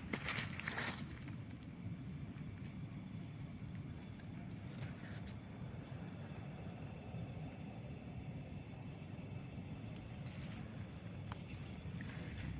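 Insects chirping in short, rapid trains of high pulses, three times, over a steady high drone of other insects. A couple of brief rustles come in the first second.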